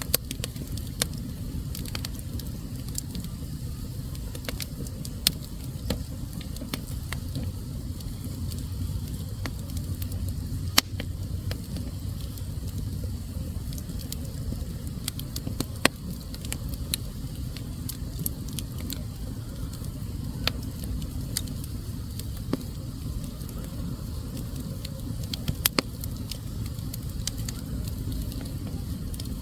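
Wood fire burning in a fireplace: a steady low rumble of flames with irregular crackling and a few sharper pops of the burning logs.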